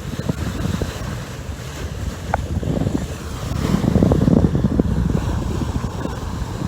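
Wind buffeting the microphone over water rushing past the hull of a schooner under sail, swelling to a louder gust a little past halfway, with one brief squeak about two seconds in.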